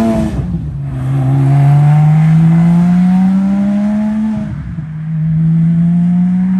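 Porsche 997.2 GT3 RS's 3.8-litre flat-six accelerating away, revs climbing through the gears, with an upshift about half a second in and another about four and a half seconds in.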